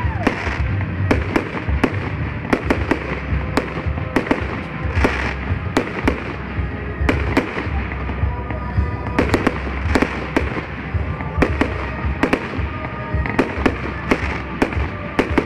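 Fireworks salute: aerial shells launching and bursting overhead in an irregular string of sharp bangs and pops, several a second.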